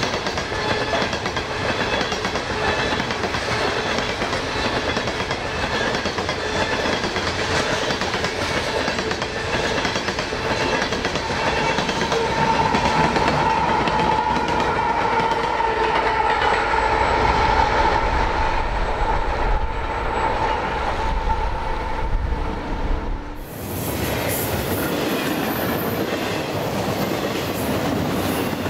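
Coal train rolling past, a steady rumble and clickety-clack of the cars on the rails. About halfway through a locomotive passes close by, with a deeper engine rumble and a steady whine. The train sound cuts off abruptly near the end.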